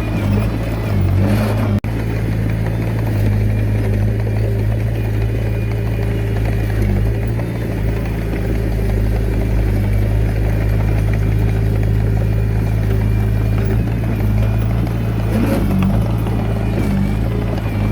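Diesel engine of a Komatsu D21A mini bulldozer running steadily under load with a deep, even hum. The sound drops out for an instant about two seconds in.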